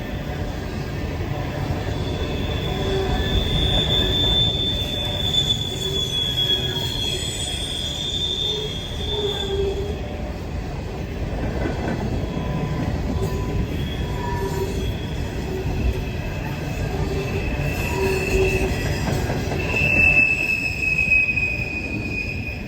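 Freight train cars rolling past with a steady low rumble, and wheel flanges squealing in long, high, steady tones for several seconds at a time, once early on and again near the end.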